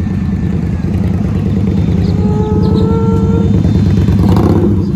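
Vehicle engine running with a steady low rumble. About two seconds in, a second, higher engine note rises slowly and briefly.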